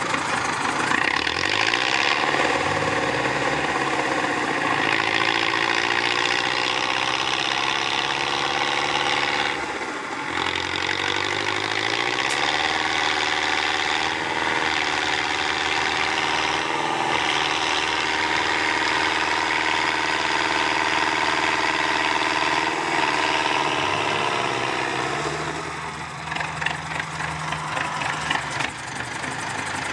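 Off-road trial truck's engine running under load, its revs rising and falling repeatedly, with marked drops about ten seconds in and again near the end.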